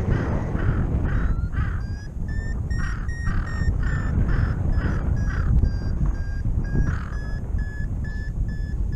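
Paragliding variometer beeping in short, evenly spaced high tones, about two and a half per second, the tone a vario gives in rising air. Steady wind rush on the microphone underneath.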